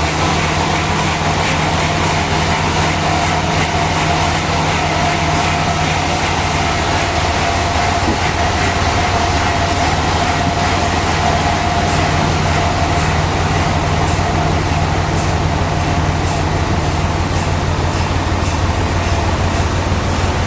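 Sawmill machinery running steadily: a loud, even low drone with a steady whine above it and a few faint ticks near the end.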